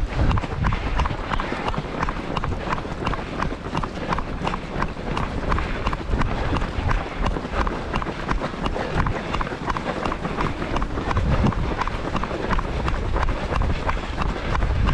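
A runner's footsteps on pavement in a steady, even rhythm, filmed on the run, with wind buffeting the microphone in a low, uneven rumble.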